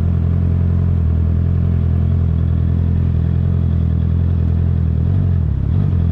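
Honda CBR650R's inline-four engine running steadily through an Akrapovic exhaust, its pitch dipping briefly and coming back up near the end.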